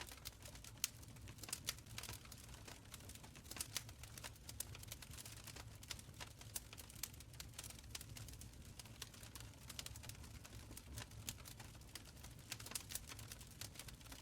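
Wood fire crackling in a stone fireplace: frequent small, sharp pops and snaps scattered irregularly over a soft, low rumble of burning.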